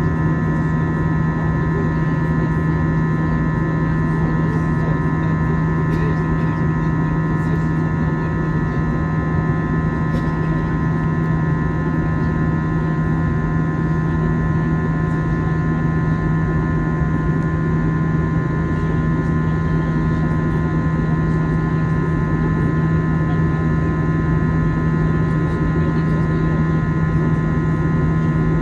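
Steady drone inside an airliner's cabin on the ground before take-off: a constant low hum with several steady high whining tones over a bed of rushing air. It does not change.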